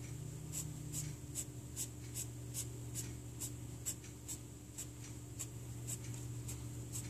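Short rhythmic scratching strokes on drawing paper, about two and a half a second, over a steady low hum.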